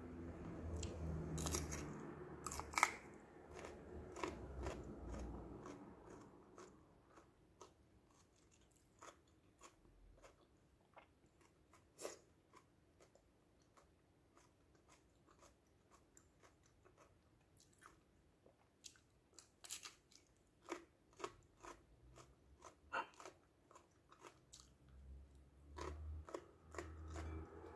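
Crunchy chewing of raw yellow bell pepper slices, with sharp crisp clicks as the pepper breaks. It is louder in the first few seconds and again near the end, with softer scattered crunches between.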